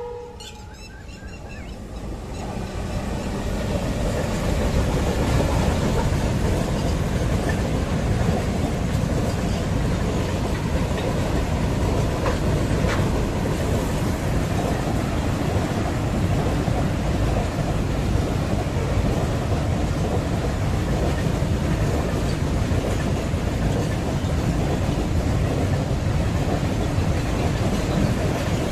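Long goods train rolling past at speed: a steady, loud rumble and hiss of wheels on rail that builds over the first few seconds and then holds steady.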